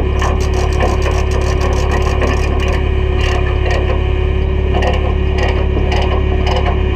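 Heavy diesel engine running steadily under a stream of irregular metallic clanks and knocks, typical of a CAT 313 excavator's steel tracks moving over a trailer deck during loading.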